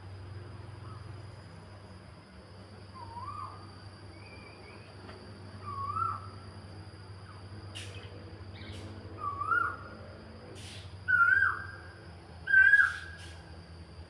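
A bird calling: a short rising, wavering note repeated about six times a few seconds apart, each louder and a little higher than the one before, the last two loudest. A steady low hum runs underneath.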